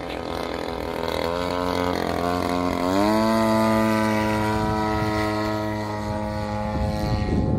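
Engine of a radio-controlled model airplane in flight, its pitch rising in two steps, about a second in and again about three seconds in, then holding steady.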